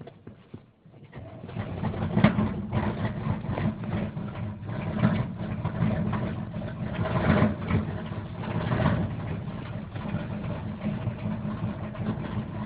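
Rebuilt 454 big-block V8 of a 1978 Chevy truck cold-starting at 15°F. It comes in about a second in and runs roughly, its sound swelling and sagging unevenly.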